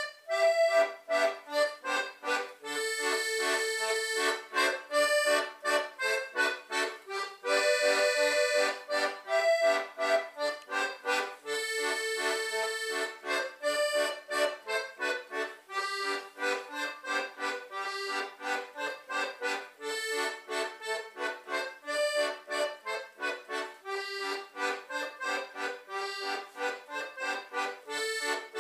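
Concertina playing a brisk Portuguese vira folk tune, a quick run of short detached notes broken by a few held chords.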